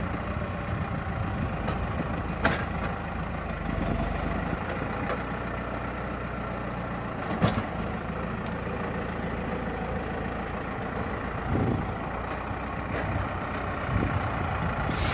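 Valmet 705 tractor's diesel engine running steadily while pulling a loaded trailer, with a few sharp clanks.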